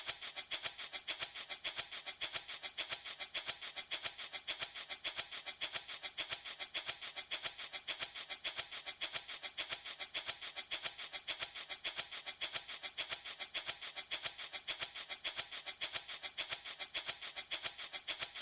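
Handmade baby rattle shaken in a steady, even rhythm, several shakes a second, each a crisp, high rattle.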